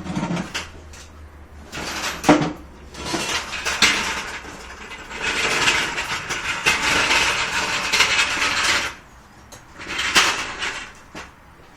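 Metal clanking and rattling as a jack is handled and set up, with a few sharp knocks and longer stretches of scraping clatter.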